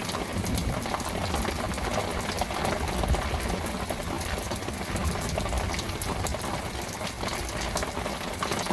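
Heavy rain falling in a torrential downpour: a steady hiss crowded with many small drop ticks.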